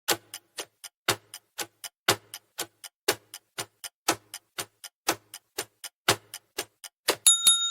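Countdown-timer sound effect: clock ticking, about four ticks a second with a stronger tick each second. Near the end a few quick clicks give way to a bell ding that signals time is up.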